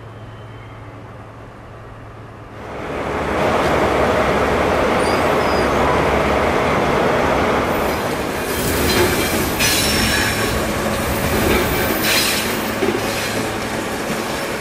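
A low steady hum, then from about two and a half seconds in a diesel-hauled passenger train rolls past close by: loud engine and wheel noise, with the wheels screeching now and then in the second half.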